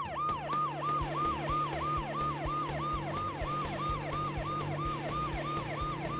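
Police car siren in yelp mode, its pitch sweeping rapidly up and down about three times a second, over a steady low hum.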